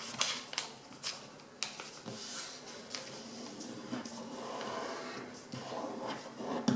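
A sheet of A4 paper being folded by hand and its crease pressed down: paper rustling, with several short sharp crinkles in the first two seconds, then softer rubbing.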